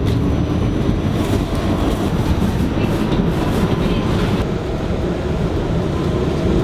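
Subway train running on the rails: a loud, steady rumble with wheels clattering over the track joints through the middle.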